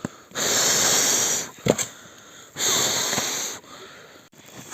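A person blowing long, steady breaths onto smouldering tinder to fan a spark into flame: two even hissing blows of about a second each, with a short click between them.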